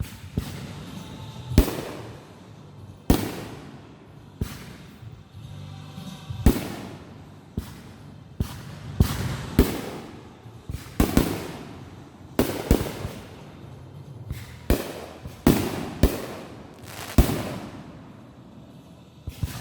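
Consumer fireworks going off in a rapid, uneven series of loud bangs, roughly one a second, each with a fading echo.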